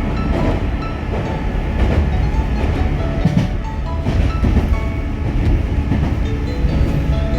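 Electric train running along the line, a steady low rumble with wheels clicking over rail joints now and then. Background music plays over it.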